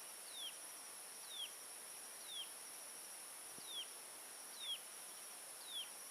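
A bird repeating one short, downward-sliding whistled note about once a second, six times, over the steady high hiss and fine trill of insects.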